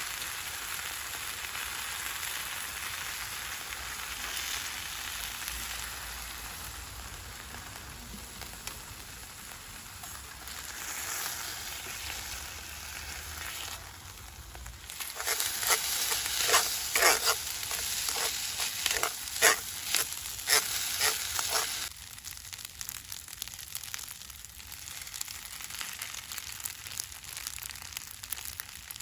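Food sizzling in a frying pan over a wood fire. A run of sharp clicks and scrapes comes in the middle, then the sound drops suddenly to a quieter sizzle.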